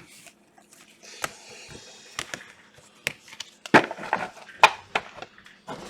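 Trading cards handled on a tabletop: a soft rustle, then a run of sharp clicks and taps as cards are snapped and set down.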